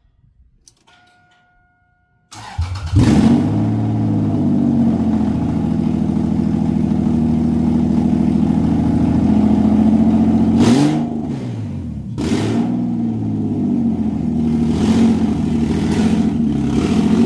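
A short steady beep, then a Toyota 2JZ straight-six swapped into a Mk3 Supra cranks and catches about two seconds in. It runs loudly, with the engine speed swinging up and down a few times in the second half.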